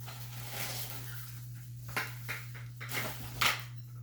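Playpen leg pieces being handled and fitted together: rustling with several sharp clacks and knocks in the second half, the loudest about three and a half seconds in.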